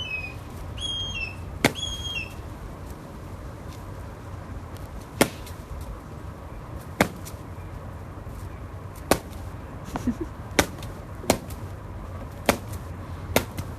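A bird gives three short, falling chirps in the first two seconds. Then come about ten sharp single taps at irregular gaps of roughly half a second to two seconds, over a steady low hum.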